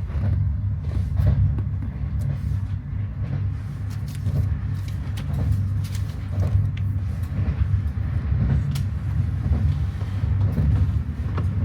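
Steady low rumble of a moving passenger train heard from inside the coach, with scattered light clicks and rattles.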